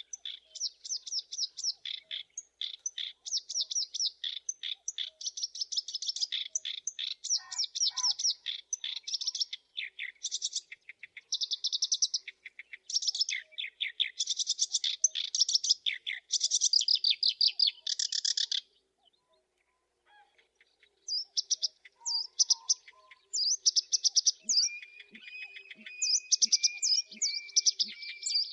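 Black-browed reed warbler singing: fast, scratchy chattering trills in bursts of a second or two, with a short break about two-thirds through. Near the end a steady thin tone runs under the song.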